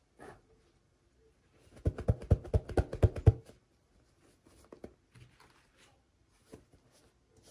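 Hands unboxing toy miniatures: a quick run of about a dozen sharp clicks and taps lasting about a second and a half, with faint rustling and ticks before and after.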